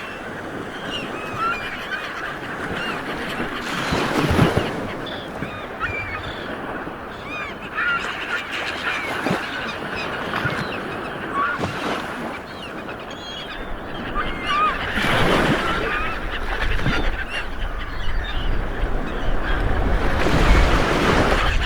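Sea waves breaking and washing onto a shore, a surge about every five seconds, while many birds call with short chirps throughout.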